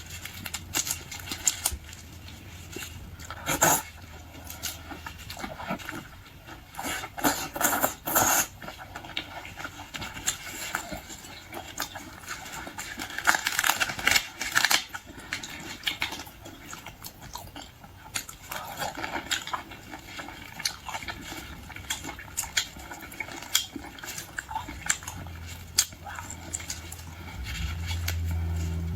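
Close-miked eating of boiled seafood: irregular wet chewing, smacking and crackling clicks, busiest around the middle. A steady low hum sits under it near the start and again near the end.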